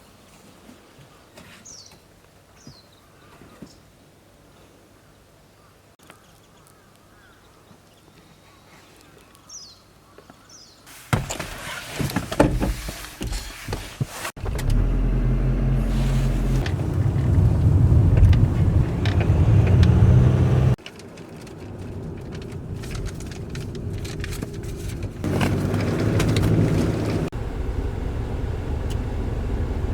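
A few faint bird calls over quiet for about the first ten seconds. Then the sound of a car driving takes over: a low engine rumble and road noise, loud and changing abruptly several times.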